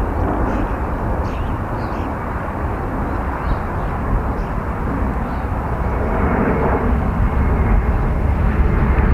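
Steady outdoor rumble of wind buffeting the microphone, with a few faint bird chirps in the first couple of seconds.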